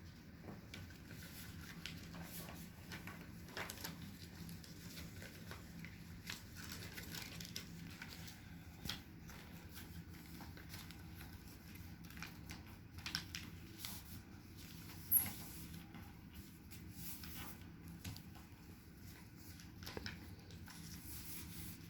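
Paper being folded and creased by hand: faint scattered rustles and soft taps, with one sharper crease or tap about two-thirds of the way through, over a steady low room hum.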